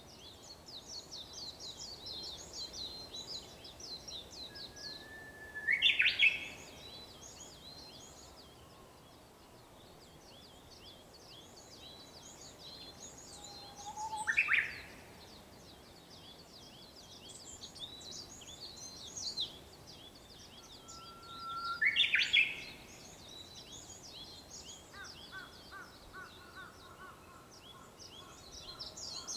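Japanese bush warbler (uguisu) singing its 'hoo-hokekyo' song three times, each a held low whistle that jumps to a short, loud higher phrase. Behind it, many small birds chirp constantly at high pitch.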